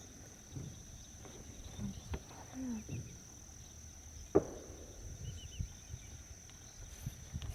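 Steady high-pitched insect chorus in a marsh, with a few faint low knocks and one sharper tap about four and a half seconds in.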